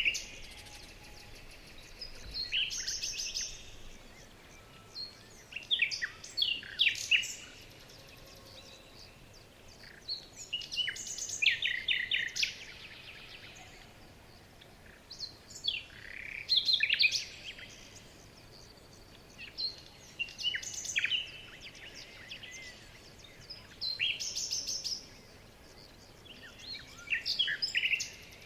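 Songbirds singing in short phrases of quick chirps and trills, a new phrase every three to five seconds, over a faint steady background hiss.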